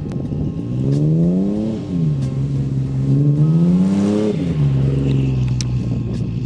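Lifted Ford Ranger's engine revving up through its MBRP aftermarket exhaust twice, a short climb about a second in and a longer one from about two to four seconds, each falling quickly back to a steady lower note.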